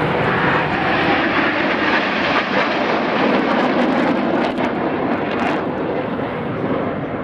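Several BAE Hawk T1 jets passing in display formation, their Adour turbofan engines making a loud, steady rushing noise that eases slightly near the end.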